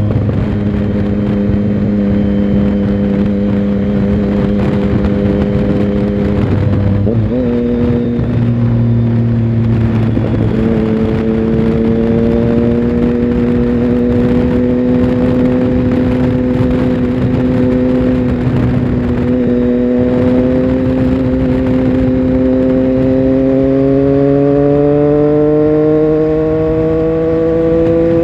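Triumph Tiger Sport 1050's inline three-cylinder engine heard from on board while riding, running at a steady note with wind rush over it. About seven seconds in the note briefly breaks, and from about three-quarters of the way through the pitch climbs steadily as the bike accelerates.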